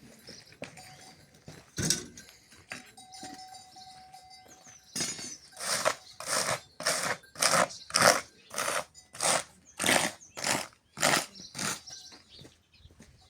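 Rhythmic scraping strokes, about two a second, start about five seconds in and stop near the end.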